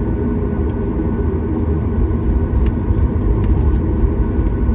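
Steady cabin rumble of a Boeing 737 MAX 8 airliner in flight, the CFM LEAP-1B engines and airflow heard from a window seat, with a faint steady whine above it and a few faint ticks.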